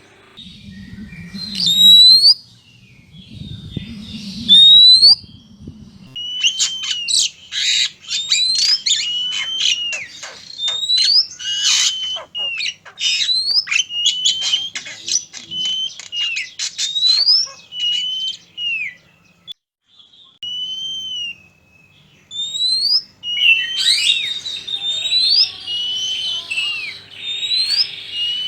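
Oriental magpie-robins singing: clear rising and falling whistles, broken from about six seconds in by a fast run of harsh, scratchy chattering notes. The song thins to a near pause about two-thirds through, then picks up again. A low rumble sits under the first few seconds.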